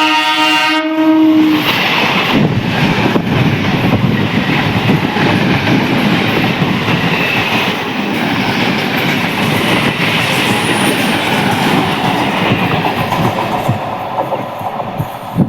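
Train horn sounding and cutting off about a second in, then an electric train passing close, its wheels clattering steadily over the rail joints.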